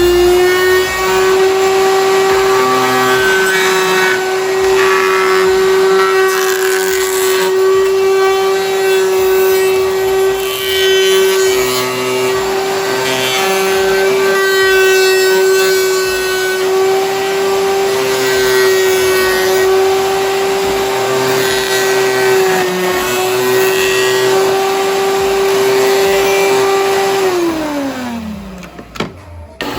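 High-speed power tool motor running steadily at a constant high pitch while cutting Kydex, then winding down and stopping near the end.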